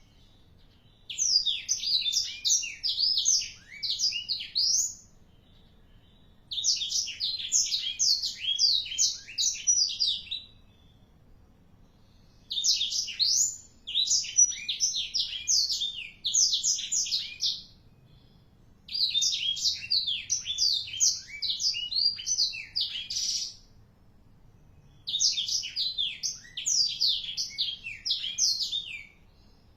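A four-month-old blackthroat (black-throated canary) singing. It gives five bursts of fast, high twittering song, each a few seconds long with short pauses between them.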